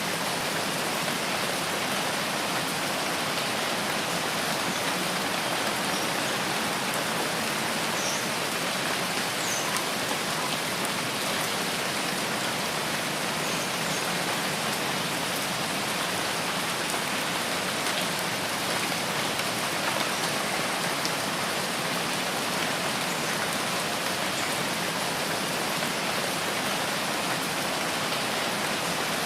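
Steady rain falling in a forest, an even hiss of many drops on leaves and ground, with a few faint high chirps now and then.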